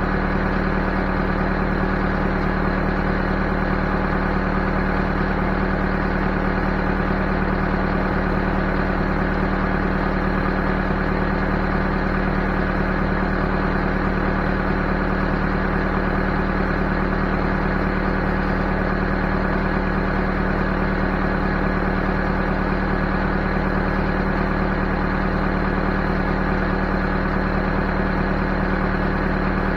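Backhoe engine running steadily at an even speed, with no change in pitch or level.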